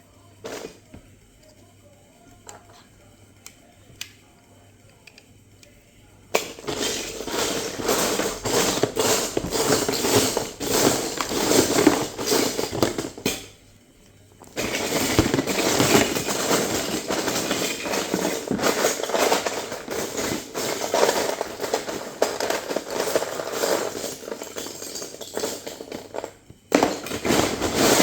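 Loose Lego bricks clattering and clicking as a hand rummages through a pile of pieces, in two long spells of dense rattling after a few quiet seconds with scattered clicks.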